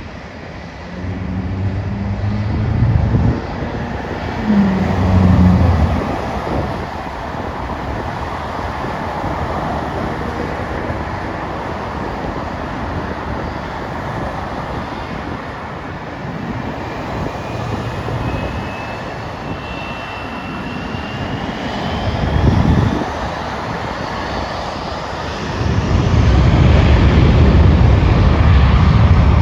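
Jet airliner passing, a steady engine rush with a thin whine that rises in pitch about two-thirds of the way through. Gusts of wind buffet the microphone several times, heaviest near the end.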